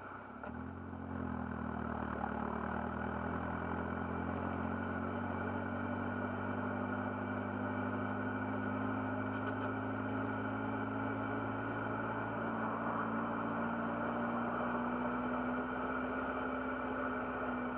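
GBS Zero kit car's engine heard from the open cockpit while driving. The note dips and picks up again in the first second, then holds a steady low drone at modest revs.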